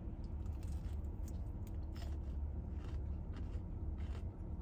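Someone chewing a crispy fried chicken tender, with faint scattered crunches and mouth clicks over a steady low rumble inside a car.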